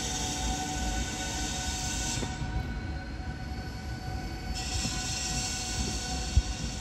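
SNCB M7 double-deck electric train at a platform: a steady electrical whine over a low rumble. A single sharp knock comes near the end.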